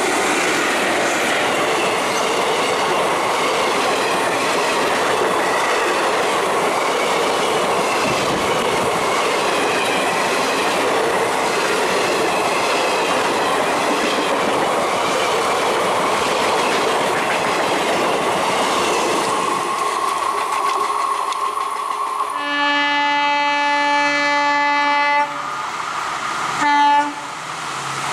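Indian Railways express train passing close at speed behind an electric locomotive: a steady rush and rumble of coaches with wheels clattering over rail joints. Near the end a locomotive horn sounds one long blast of about three seconds, then a short blast.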